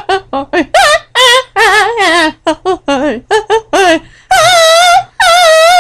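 High-pitched wavering vocal sounds: a fast run of short yelping notes, then two long held notes with a wobbling pitch near the end.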